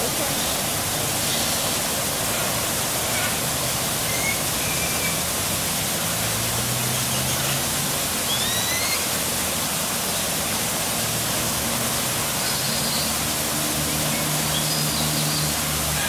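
Steady rush of falling water, with a few faint, short bird chirps over it.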